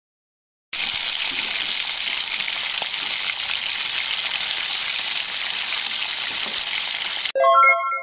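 Food sizzling in hot oil in a pan: a steady hiss that starts abruptly about a second in and cuts off sharply near the end. It is followed by a brief, louder ringing chime-like tone.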